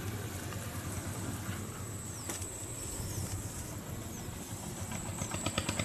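Riverside ambience: an even rush of flowing river water under a thin, steady high tone, with a few short falling bird chirps and a quick run of light clicks near the end.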